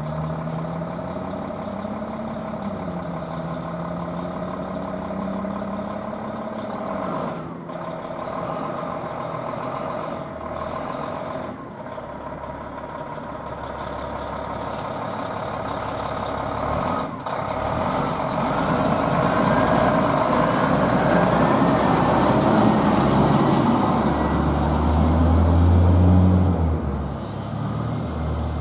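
1995 Pierce Lance fire truck's diesel engine running as the truck pulls away, its pitch rising over the first several seconds, with a few sharp clicks and an air brake hiss. The engine grows louder in the second half, with a heavy low rumble near the end.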